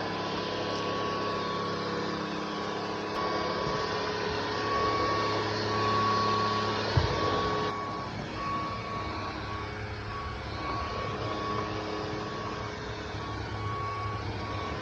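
LEVOIT LVAC-200 cordless stick vacuum running steadily, a motor whine over rushing air. There is a single knock about seven seconds in, and the hiss eases about a second later.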